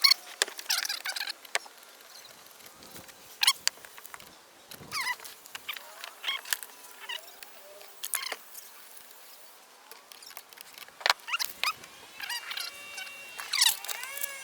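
Hands working on car battery wiring: scattered clicks, knocks and rustling as cables and parts are handled. A pitched tone with several steady notes comes in near the end.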